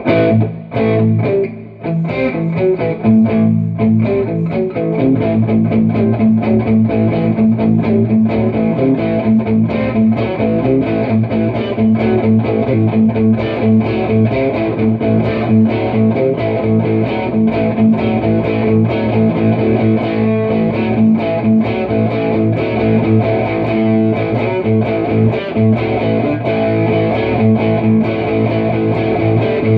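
Electric guitar played through a Boss Metal Zone distortion pedal and a Mooer Radar speaker-cabinet simulator set for room ambience, with continuous picked chords and riffs in a steady rhythm. There is a short break about a second in.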